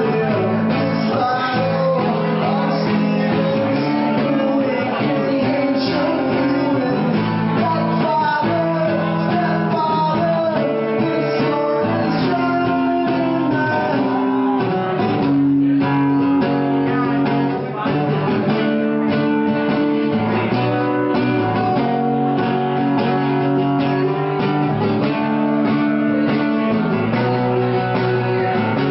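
Acoustic guitar played live, a continuous run of picked and strummed notes with no words sung.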